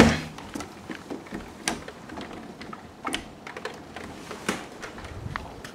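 Heavy thunderstorm rain heard from indoors through the house walls and window: a faint, muffled hiss with scattered sharp ticks about once a second.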